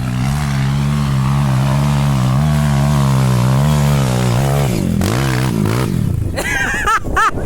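Motorcycle engine held at steady high revs for about four and a half seconds, then dropping and revving up and down again near the end.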